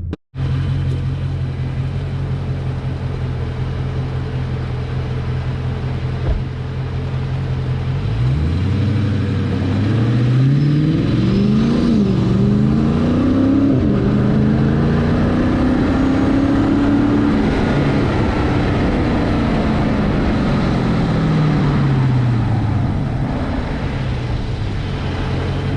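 Dodge Charger Scat Pack's 392 HEMI V8 through an MBRP 3-inch race catback exhaust, idling steadily, then revved: a few quick blips, then one long, slow rise and fall in revs before settling back to idle.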